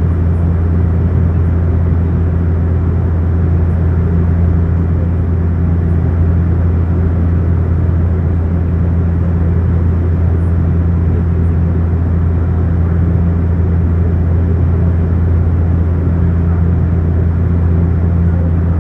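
Steady, loud low-pitched engine drone with a constant hum, unchanging throughout.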